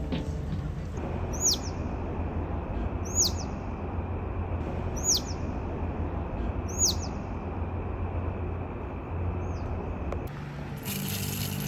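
A bird giving a short, high call that sweeps sharply downward, five times about two seconds apart, the last one fainter, over a steady low background rumble.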